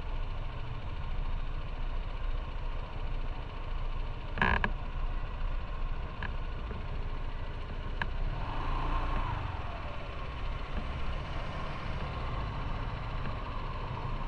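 Motorcycle engine idling with a steady low rumble, with a sharp click about four seconds in. From a little past halfway a broader engine noise joins.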